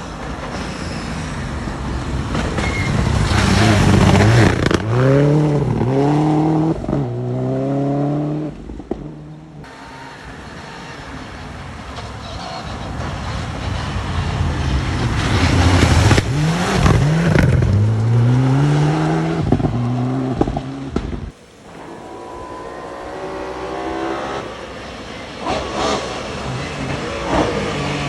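Rally cars passing one after another at speed, each engine revving hard and changing up through the gears as it comes by; the sound cuts abruptly from one car to the next.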